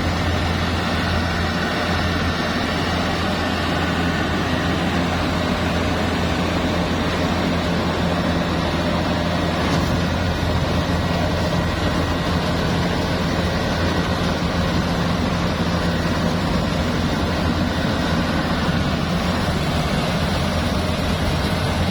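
Bimo Plus rice harvesting machine running steadily: a constant low engine drone with an even rushing noise over it.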